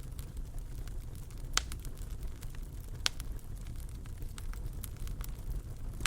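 Wood fire burning in a fireplace: a steady low rumble with scattered small crackles and two louder pops, about one and a half and three seconds in.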